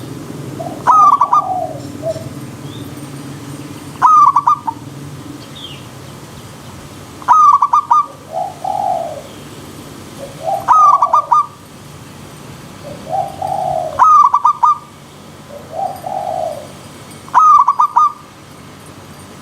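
Zebra doves (perkutut) cooing: a loud, rapid stuttering call repeats about every three and a half seconds, with softer, lower coos in between, over a steady low background noise.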